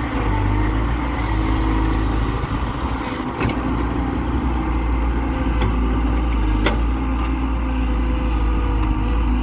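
Diesel engine of heavy earthmoving machinery running steadily with a deep hum, with a couple of short sharp knocks about a third of the way in and again past the middle.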